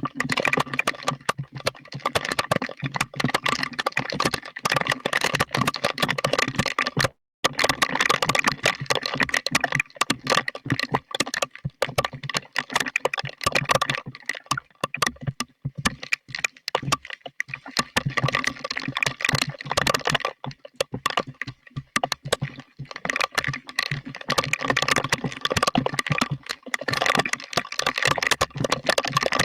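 Heavy storm rain pattering on a hard surface close by, a dense stream of irregular clicks and crackles. It cuts out briefly about seven seconds in.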